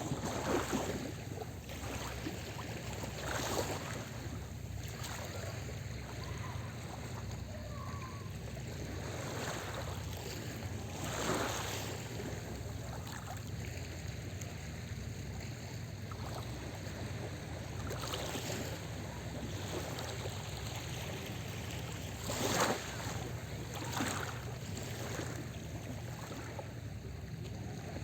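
Small sea waves washing onto the shore, each a short rush of surf a few seconds apart, over a steady low rumble.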